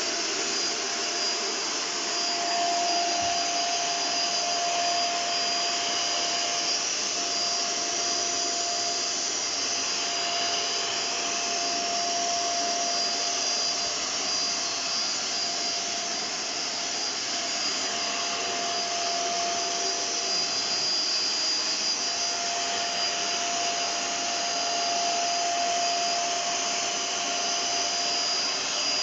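Kitfort KT-595 steam vacuum cleaner running steadily: an even rush of suction with a thin high whine and a lower steady tone over it.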